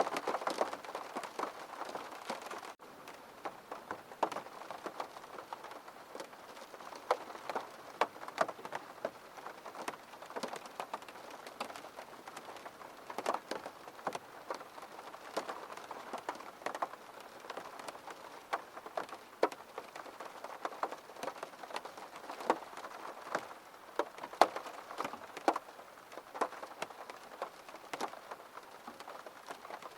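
Steady rain hitting a window: an even hiss with irregular sharp drop taps throughout. A brief gap comes about three seconds in, after which it is slightly quieter.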